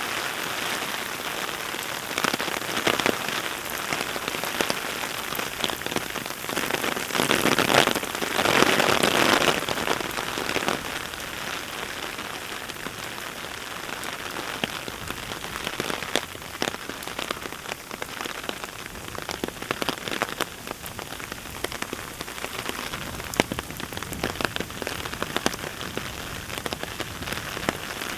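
Heavy rain falling, a dense wash of sound sprinkled with many sharp drop ticks, which swells louder for a few seconds about a quarter of the way through.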